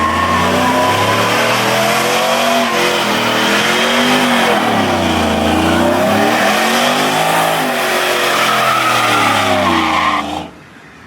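Car engine revving up and down in repeated waves while its tyres spin and squeal against the pavement; the sound drops away suddenly near the end.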